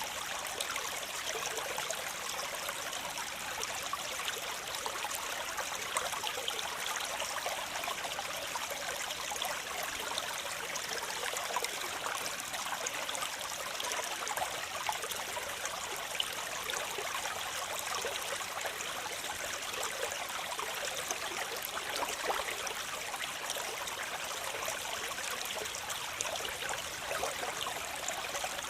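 Waterfall: a steady rush of falling water with fine splashing throughout, hissy and bright, with little low rumble.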